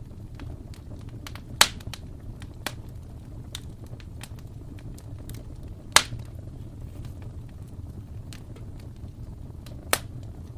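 Wood fire crackling in a fireplace: a low steady rumble of the flames with scattered small ticks, and three loud sharp pops, about a second and a half in, near the middle and near the end.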